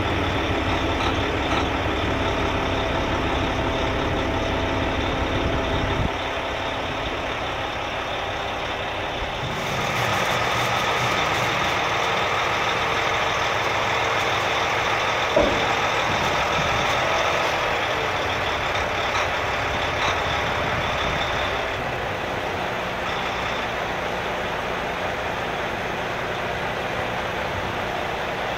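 A heavy truck running steadily. About ten seconds in a brighter, hissing sound joins it, and it eases off again a little past twenty seconds.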